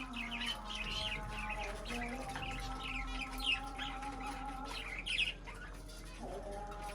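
Small birds chirping in short, repeated calls, over soft background music of long held notes that shift pitch a couple of times.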